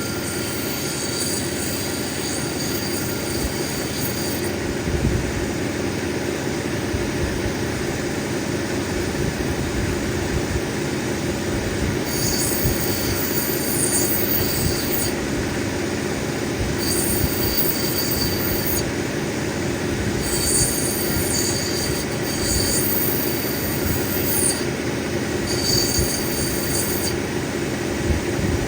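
Cabbing machine's grinding wheel running steadily while a black opal is ground against it. The stone squeals high on the wheel in four passes of one to three seconds each in the second half.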